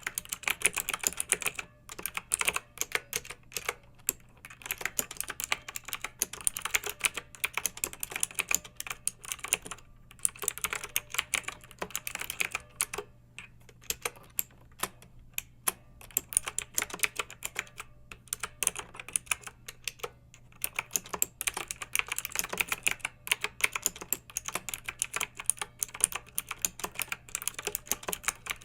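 Clicky mechanical keyboard being typed on: quick, irregular runs of sharp keystroke clicks with brief pauses between bursts.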